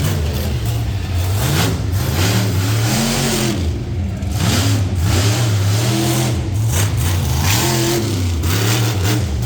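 Monster truck engine revving hard again and again during a freestyle run, its pitch climbing and dropping every second or so.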